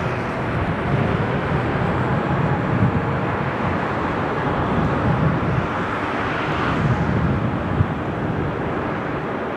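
Airbus A380-841's four Rolls-Royce Trent 970 turbofans at takeoff thrust: a loud, steady jet rumble with a fluttering low end.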